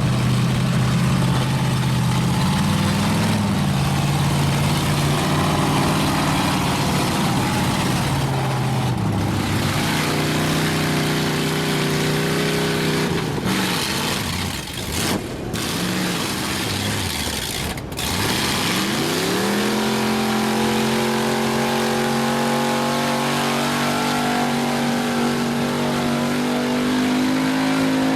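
A mud truck's engine running under heavy throttle with the revs shifting. About two-thirds of the way in it briefly drops off, then sweeps sharply up to high revs and holds there, steady, to the end.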